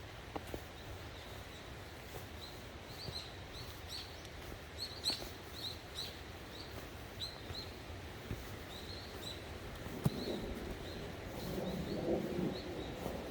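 Small birds chirping: many short, high, faint calls, a few each second, over a steady outdoor background hiss.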